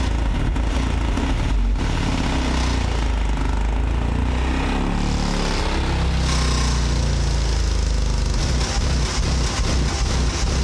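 Car-audio subwoofers playing loud, deep bass, with a buzzing rattle on top.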